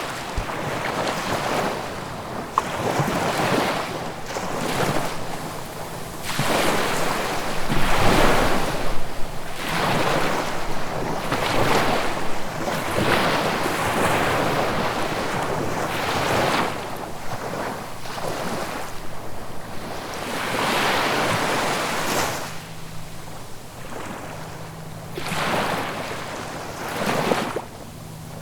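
Sea waves breaking and washing up the shore in repeated swells, each rising and falling away within a second or two; the biggest comes about eight seconds in.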